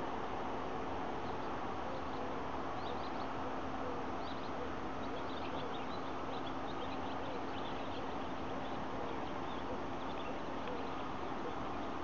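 Small birds chirping in many short, high twitters over a steady background hum.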